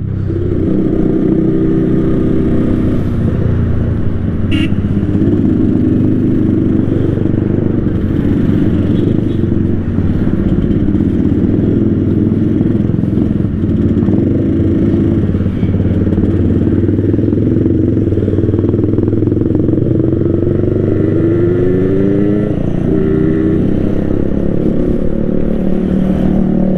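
Yamaha RX King two-stroke single-cylinder engine with a 'ngorok' (growling) exhaust tune, running steadily while being ridden. Its revs rise and fall in several short pulls in the last third.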